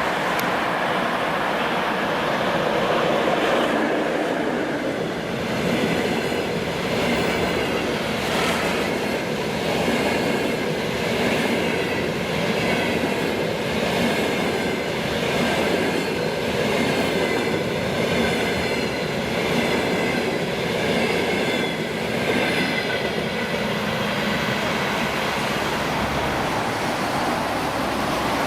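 A double-decker passenger train hauled by an EP2K DC electric locomotive passes at speed: a steady rolling rumble, with the wheels clattering in a repeating rhythm over the rail joints as the coaches go by.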